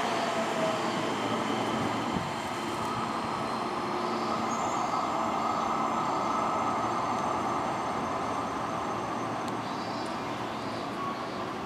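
Seibu 20000 series electric commuter train running slowly along the platform as it approaches, giving a steady, even running noise with no sharp sounds.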